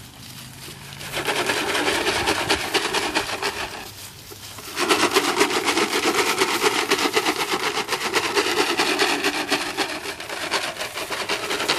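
Presa Canario puppies growling in play, a long rasping growl that breaks off briefly about four seconds in and then starts again louder.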